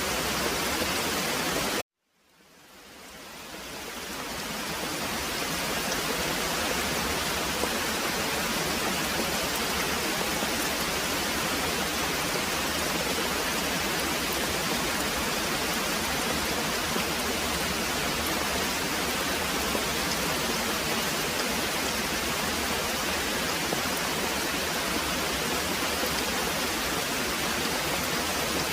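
Very heavy rain pouring steadily as an even hiss. About two seconds in it cuts out abruptly to silence, then fades back in over a few seconds.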